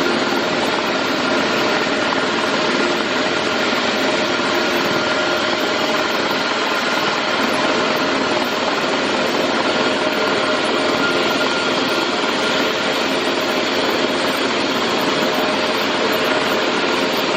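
Helicopter running steadily: a dense, even engine-and-rotor noise with a few faint steady whining tones in it.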